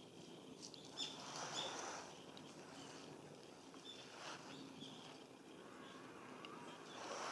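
Black-faced buntings foraging in dry leaf litter: a few bursts of rustling leaves, with short, thin high call notes scattered between them.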